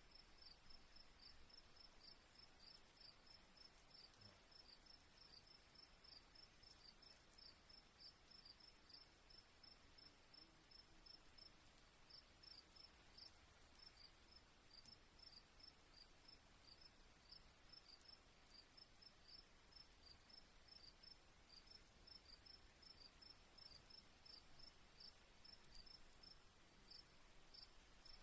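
Crickets chirping faintly: a steady high-pitched trill with short chirps repeating about three times a second, pausing briefly about eleven seconds in.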